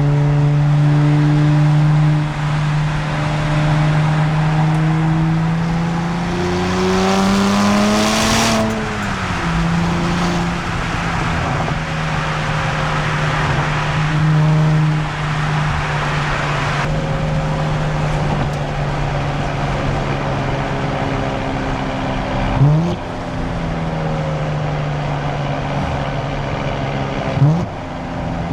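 Nissan Z Nismo's twin-turbo V6 through a Nismo Track exhaust while driving: a steady exhaust drone that climbs in pitch for a couple of seconds under acceleration, drops with an upshift, then settles back to cruising. Near the end come two brief, sharp rev blips.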